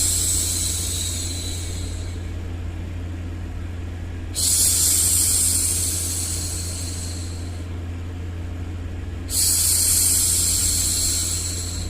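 A woman hushing a baby with long "shhh" sounds, about five seconds apart: one is fading as the clip opens, then two more, each starting suddenly and dying away over a couple of seconds. Under them runs a steady, low white-noise rumble.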